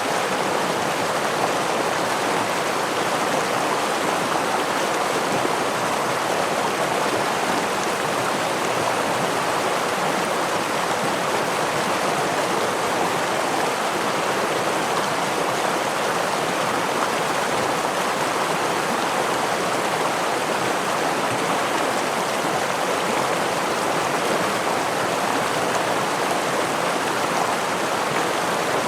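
Stream water running over a small waterfall: a steady, even rushing with no breaks or changes.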